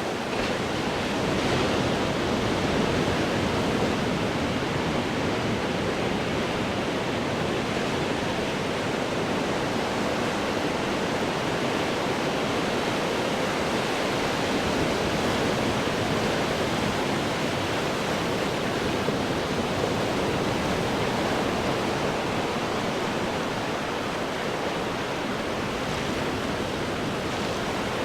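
Ocean waves breaking and washing over rocks: a continuous roar of surf that swells gently, rising a little about two seconds in.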